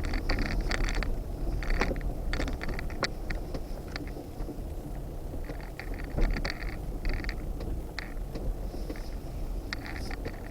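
Off-road vehicle crawling slowly over a rough trail: a steady low engine and tyre rumble with irregular clicks, creaks and scrapes on top.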